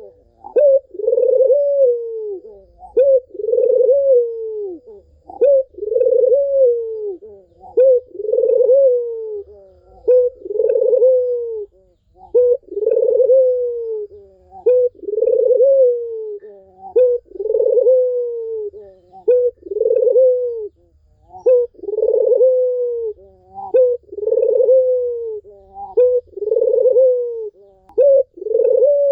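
Barbary doves (puter) cooing repeatedly, about one coo every second and a half. Each coo is a drawn-out note that falls in pitch at the end, with fainter coos overlapping between them.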